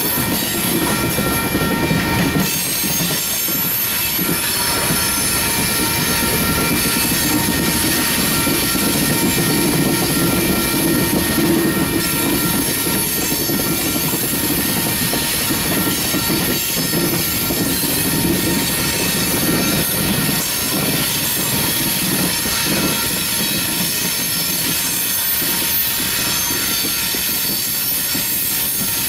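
Steel-wheeled coal cars of a freight train rolling steadily past, a continuous rumble and clatter of wheels on rail with a steady high-pitched wheel squeal over it.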